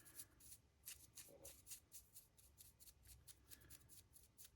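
Faint, quick scratchy strokes of a paintbrush scrubbing paint onto a resin model, about four or five strokes a second.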